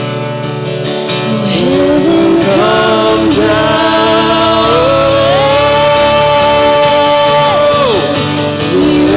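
Worship music: a voice singing long held, sliding notes over acoustic guitar accompaniment.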